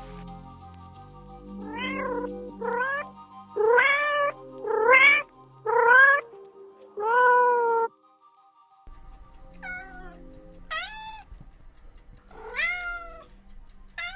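A cat meowing over and over: about seven short meows that rise and fall in pitch in the first eight seconds, then a brief pause and four more. Soft background music with steady tones runs under the first half.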